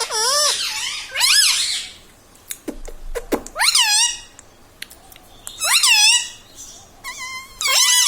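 Indian ringneck parrot giving a series of about five loud, high, squeaky calls, each rising and falling in pitch, a second or two apart, with a few short clicks in between.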